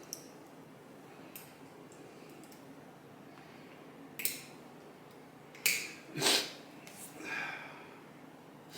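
A few short clicks and scrapes from small motorcycle fork parts being handled and checked by hand, the loudest about six seconds in.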